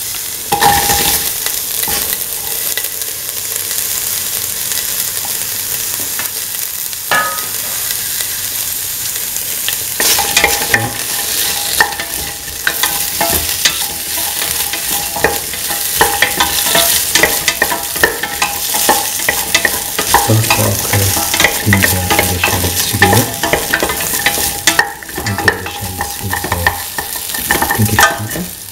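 Shallots, ginger and cut okra sizzling in hot oil in a stainless steel pan. From about ten seconds in, the food is stirred, with many clicks and scrapes of a utensil against the pan over the sizzle.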